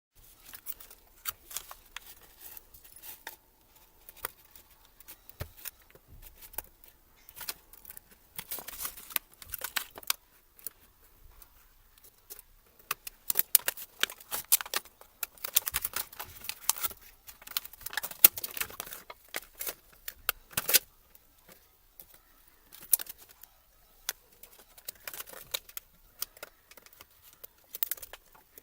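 Irregular small clicks, taps and scrapes of plastic parts and small tools being handled as a laptop is taken apart, busiest in the middle.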